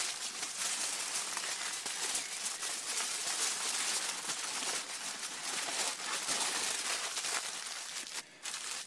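Tin foil crinkling and crackling steadily as several layers are folded and pressed around a joint of beef to seal it into a parcel, pausing briefly near the end.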